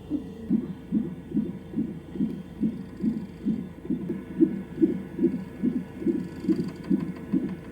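Fetal heart rate monitor's Doppler speaker playing the baby's heartbeat during labour: a rapid whooshing pulse of about two and a half beats a second, steady throughout.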